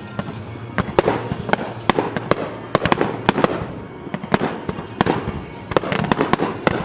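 Aerial fireworks display: shells bursting in a rapid barrage of sharp bangs, several a second.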